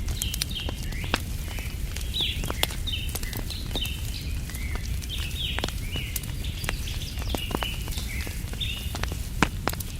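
Wood fire crackling with many sharp pops, while birds chirp in short repeated notes, over a low steady rumble.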